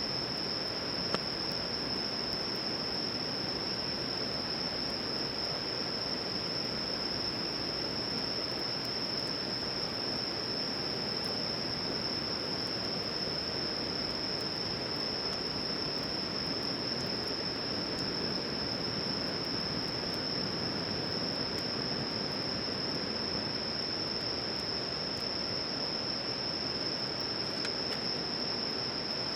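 Insects calling in one steady, unbroken high-pitched trill, over a constant rushing hiss.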